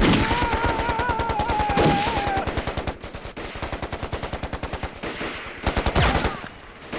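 Machine-gun fire in a rapid, even stream of about ten shots a second, easing off in loudness after about three seconds, then a louder blast of shots near the end.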